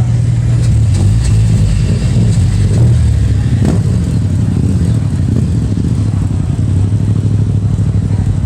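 Car engine idling close by: a steady, loud low rumble.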